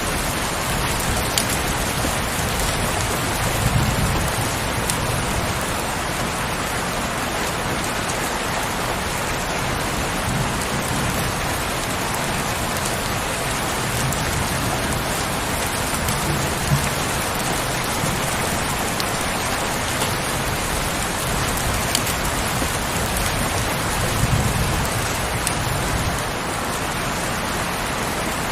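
Steady heavy rain, an even hiss of many drops, with a few soft low rumbles swelling and fading about every six seconds.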